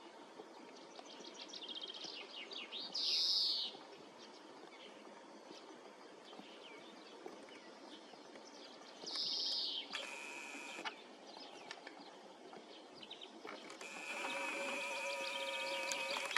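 A songbird calling outdoors: a short loud call about three seconds in and again about nine seconds in, with faint chirps in between. A brief noisy burst follows the second call, and from about two seconds before the end a steady drone with several held pitches comes in.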